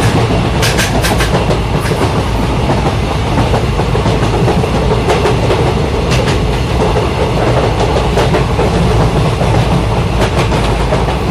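Passenger coaches of an Indian tourist train rolling past a platform: a steady rumble of wheels on rail, with sharp clacks at irregular intervals as the wheels cross rail joints.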